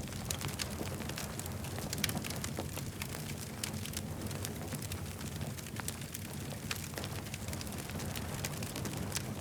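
Wood campfire crackling and popping, with a steady low rumble of burning under many small irregular snaps.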